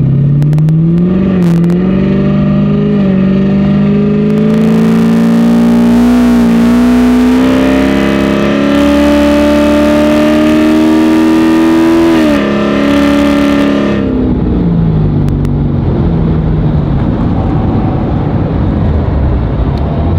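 C8 Corvette Z06's 5.5-litre flat-plane-crank V8 accelerating hard, its pitch climbing with a few brief dips over about twelve seconds. It then lets off and the revs fall. Only a low rumble and road noise remain near the end.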